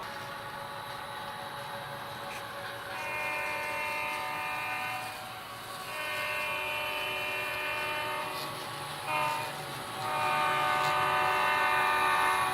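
A model diesel locomotive's sound decoder, played through its small onboard speaker, sounds a multi-tone diesel air horn over a steady idling engine sound. The blasts go long, long, short, long: the grade-crossing signal.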